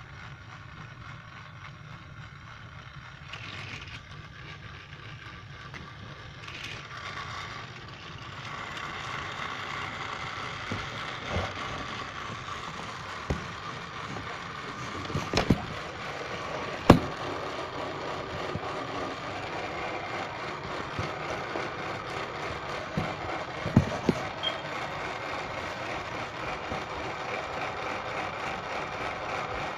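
Motorized toy Thomas train running on plastic track: a steady whirring of its small electric motor and gears, growing louder about eight seconds in as it comes nearer, with several sharp clicks as the wheels cross track joints.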